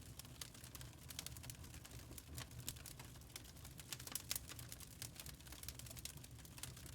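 Wood fire crackling in a fireplace: irregular sharp pops and snaps, a few louder than the rest, over a low steady rumble of the burning.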